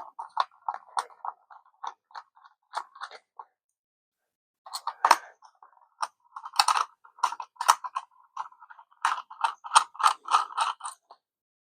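Small precision screwdriver backing screws out of a plastic drone controller: irregular runs of quick clicks, with a pause of about a second around four seconds in.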